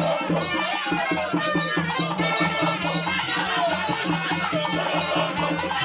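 Traditional Ijaw masquerade band music: drums and percussion beating a quick steady rhythm, with voices singing along over a crowd.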